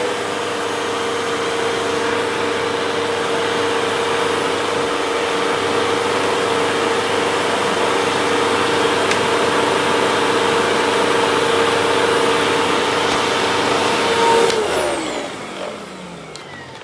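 Hoover vacuum cleaner motor running steadily with a whine over rushing air during a suction test of the freshly cleaned hose, drawing strong suction. Near the end it is switched off and the whine slides down in pitch as the motor spins down.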